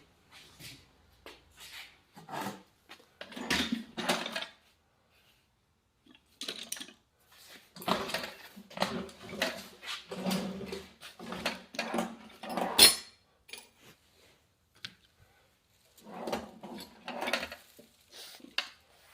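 Small metal carburetor parts and hand tools clinking, scraping and rattling on a workbench while a snowblower carburetor is taken apart, in scattered bursts with one sharp click about two-thirds of the way through.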